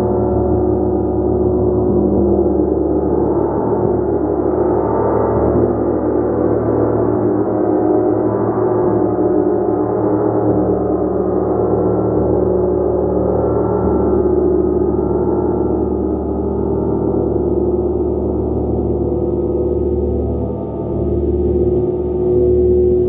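A large gong played continuously in a sustained, swelling wash of many overlapping tones, with no distinct single strikes standing out.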